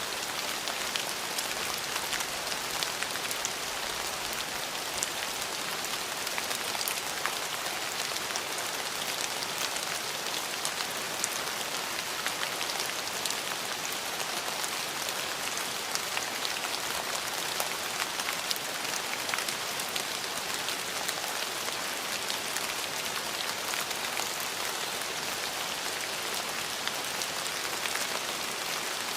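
Steady rain falling and pattering on surfaces, a constant hiss dotted with the sharp ticks of individual drops.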